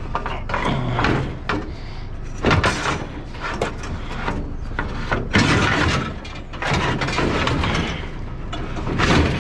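Irregular knocks and clattering of bulky curbside scrap being handled and stacked, with gusty wind on the microphone.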